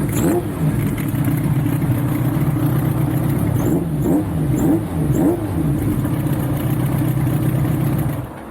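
Kawasaki Zephyr 1100's air-cooled inline-four with a K-Factory center-collect titanium exhaust and TMR36 carburettors, idling with a quick throttle blip at the start and four quick blips around the middle; the engine stops near the end.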